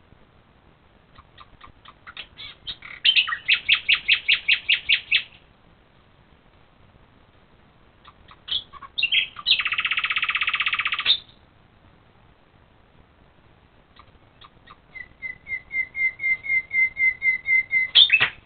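A songbird singing three phrases. Two are runs of quickly repeated whistled notes that grow steadily louder, and between them comes a short rapid trill.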